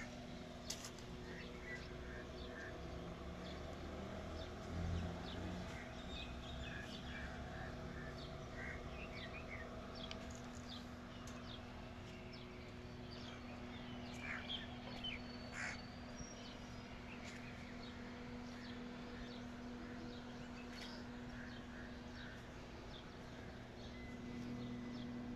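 Birds calling and chirping in short scattered notes over a steady low hum.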